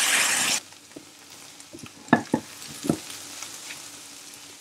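Sliced mushrooms and onion sizzling in butter in a frying pan while being stirred with a silicone spatula, sautéing until the onion browns. The sizzle is loud for the first half second, then drops suddenly to a quiet sizzle, with a few light knocks of the spatula against the pan about two to three seconds in.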